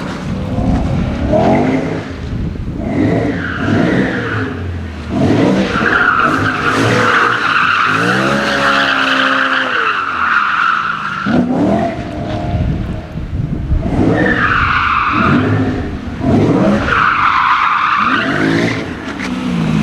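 BMW performance car's engine revving up and down repeatedly while its tyres squeal in several long stretches, the longest about a third of the way in, as the car slides in a drift or donut.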